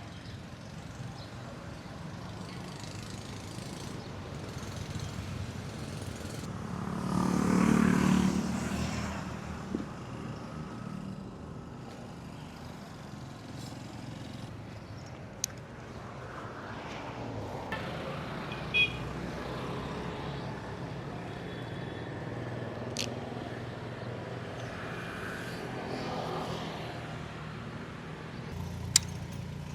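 A vehicle engine running with a steady low rumble, swelling louder for a couple of seconds about eight seconds in, with a few sharp clicks scattered through.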